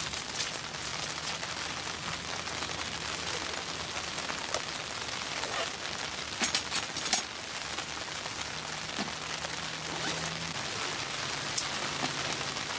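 Steady rain falling, with a few sharper individual drop hits standing out, a cluster of them about halfway through.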